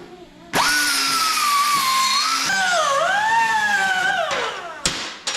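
A power grinder sanding down fresh welds on steel. It starts abruptly with a high whine over a hiss, and its pitch dips as the disc bears on the metal. About four seconds in it is let off and winds down with a falling whine.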